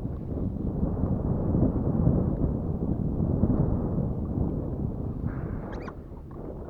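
Wind buffeting an action camera's microphone, a steady low rumble, with a brief faint squeak near the end.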